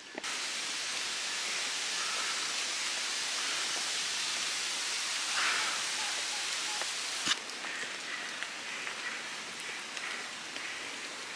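Heavy rain falling steadily, an even hiss, with a single sharp knock about seven seconds in.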